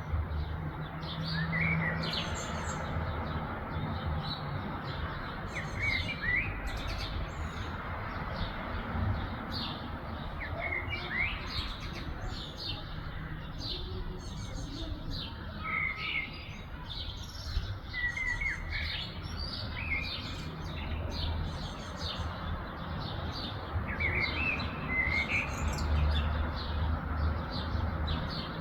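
Several small birds chirping and singing, with many short high chirps and a short rising whistled phrase that recurs every few seconds, over a low steady rumble.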